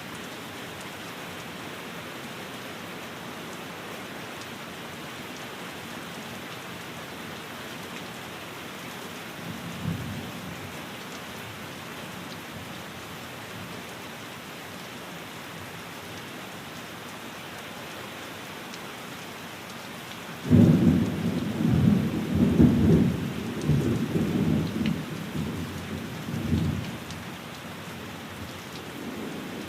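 Steady rain falling on a window, with a short low rumble about ten seconds in. About two-thirds of the way through a loud, low roll of thunder breaks in and rumbles in several swells for some six seconds, the loudest sound here, before dying back under the rain.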